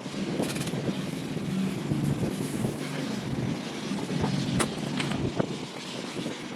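A small engine running steadily, with a few sharp clicks over it.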